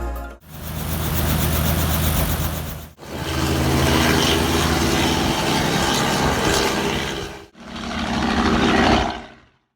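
Outboard boat motor running steadily, heard in three short stretches that each fade in and out.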